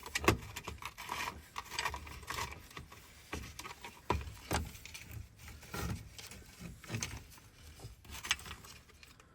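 Small metal parts of a Ford ignition lock and switch being handled and fitted together: irregular light clicks, taps and rattles, the sharpest about a third of a second in.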